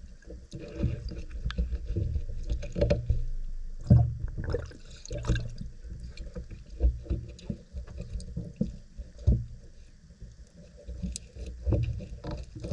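Irregular handling noises close to the microphone: a run of soft knocks, clicks and low thumps at uneven intervals, the loudest thump about four seconds in.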